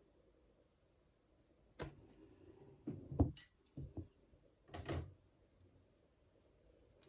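A handful of light knocks and taps on a hard surface, spread over a few seconds with the loudest in the middle.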